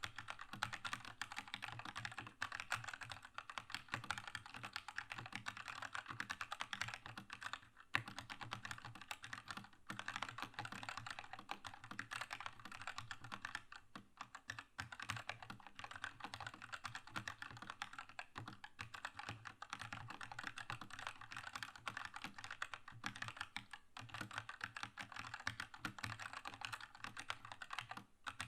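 Keychron K2 mechanical keyboard with red linear switches being typed on fast and continuously: a dense stream of keystrokes, broken by a few short pauses.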